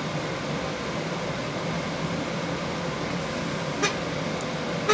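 Steady background hiss with a faint hum, like a room fan or air conditioner running, with two short sharp clicks near the end, about a second apart, from small parts being handled.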